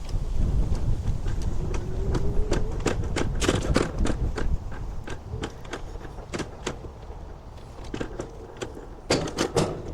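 Scooter rolling along a path, rattling with irregular clicks and knocks, over a low rumble of wind buffeting the microphone. A faint steady whine runs underneath.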